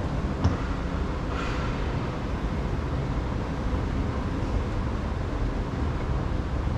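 Steady low rumble of vehicle and traffic noise, with a short knock about half a second in.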